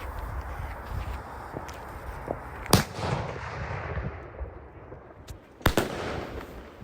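Fireworks going off outdoors: two sharp bangs about three seconds apart, each followed by a fading crackle, with a few fainter pops in between.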